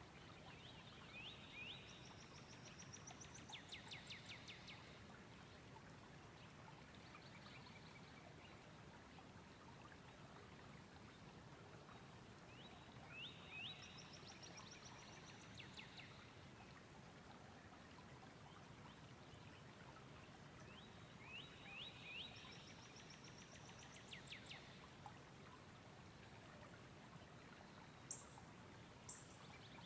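A faint songbird singing the same short song three times, about ten seconds apart, each a few quick sweeping notes followed by a rising trill. A few brief high chirps come near the end, all over a steady faint hiss.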